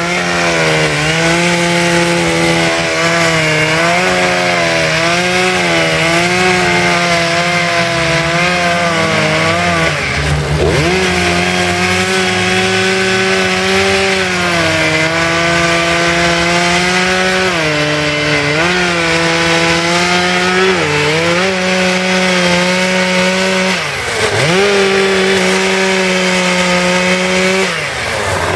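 Two-stroke chainsaw running at high revs while carving wood. The engine pitch sags and recovers several times as the chain bites into the cut.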